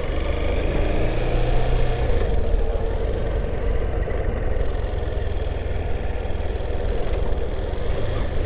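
Honda motorcycle engine running steadily at low road speed, with no revving or gear changes.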